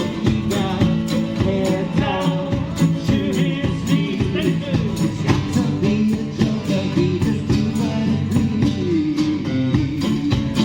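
Live band playing a song: a singer over guitar, with a steady beat.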